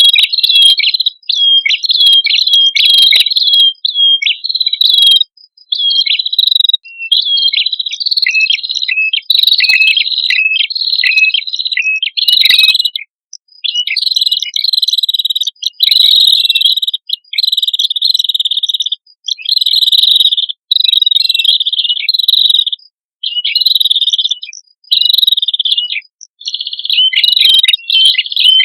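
Prenjak kepala merah songbirds, male and female, calling loudly in high, sharp, rapid chirping phrases, one after another with brief gaps.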